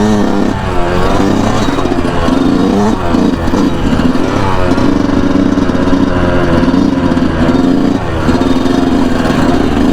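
Yamaha YZ125 125cc single-cylinder two-stroke dirt bike engine under way, revving hard, its pitch climbing and dropping several times as the throttle is worked.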